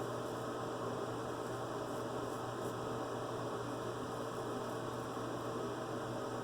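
Steady electrical hum under a constant low hiss, with no distinct events.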